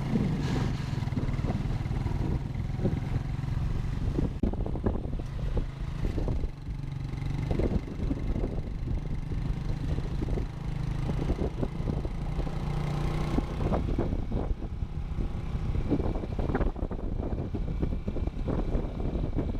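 Motorcycle engine running steadily while riding, with many short knocks and rattles over the drone.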